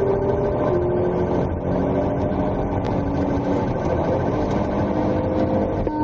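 Vehicle engine running steadily under a dense low rumble, its pitch lines drifting slightly as speed changes.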